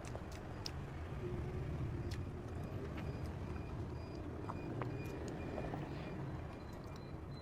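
Steady low rumble of background noise with a few faint clicks and taps.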